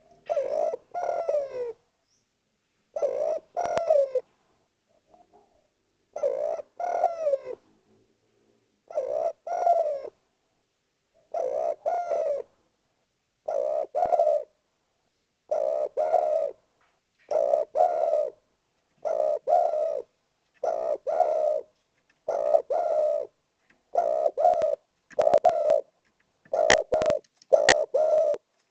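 Male spotted dove (tekukur) cooing repeatedly, a several-note coo phrase about every two seconds: its loud call to rival doves. A few sharp clicks sound between the coos near the end.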